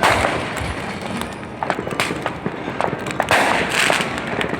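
Fireworks bursting: a bang at the start, more bangs about two seconds in, and a longer crackling burst a little past three seconds.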